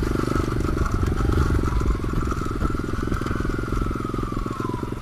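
A 125 cc pit bike's engine running under way, with its pitch climbing slowly for about three seconds and then easing back down.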